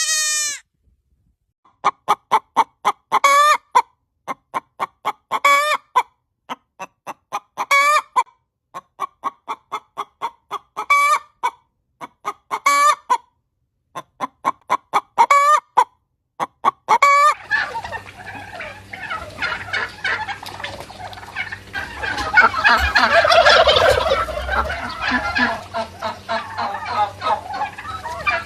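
Domestic turkeys calling: groups of quick, pitched notes repeated about every two seconds. About two-thirds of the way through, this gives way to a denser jumble of overlapping fowl calls over a low hum. A brief high call comes at the very start.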